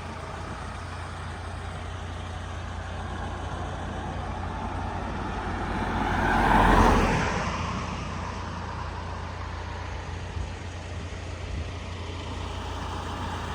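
A road vehicle going past, swelling to its loudest about halfway through and fading away, over a steady low rumble.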